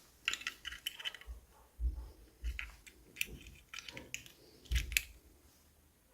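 Hands handling small plastic toy pieces and packaging: a run of light clicks and taps, with a few soft bumps as items are set down.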